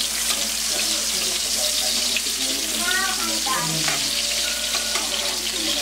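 Garlic, onions and tomatoes sizzling in hot oil in a wok, stirred with a spatula: a steady frying hiss.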